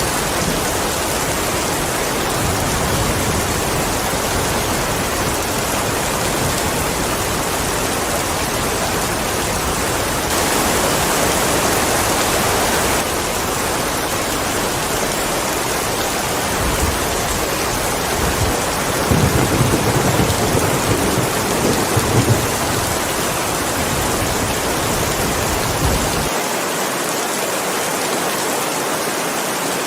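Steady, heavy rain falling as a continuous hiss, with a low rumble of thunder about two-thirds of the way through.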